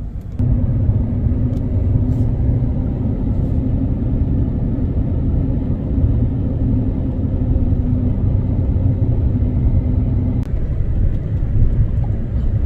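Truck engine running with a steady low rumble and hum while driving; the hum shifts about ten and a half seconds in.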